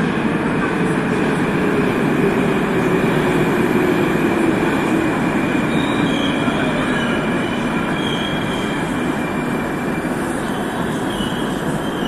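Moscow metro train running through the station, a low tone falling in pitch as it slows over the first half. High-pitched wheel squeals come in from about halfway.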